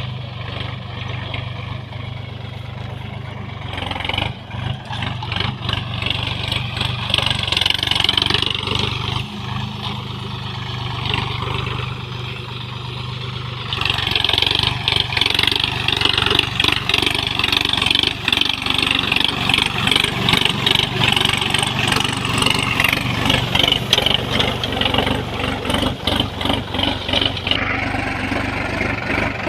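Sonalika DLX RX 50 4WD tractor's diesel engine running steadily. About halfway through, a louder, rough, fluttering noise joins and lasts until shortly before the end.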